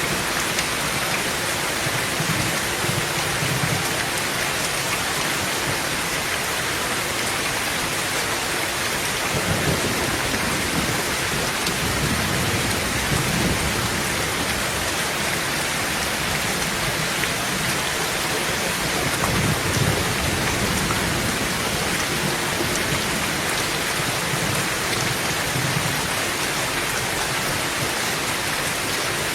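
Heavy rain drumming steadily on a tin roof, with low thunder rumbling softly underneath and swelling several times.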